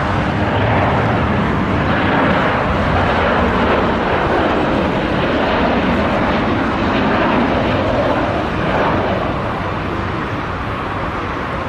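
Jet airliner's engines passing, a loud steady rush of noise that eases slightly about nine seconds in.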